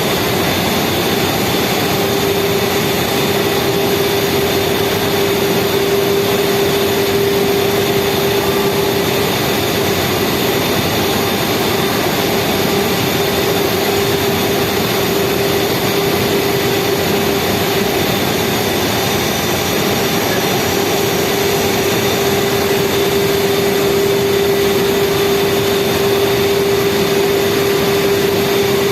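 Speedboat engine running steadily at speed: a constant drone with one steady tone over rushing noise, holding the same pitch throughout.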